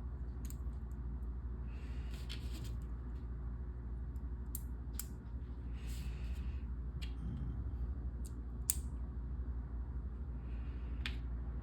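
Plastic LEGO pieces being handled and pressed together: scattered sharp clicks and light rustling, over a steady low hum.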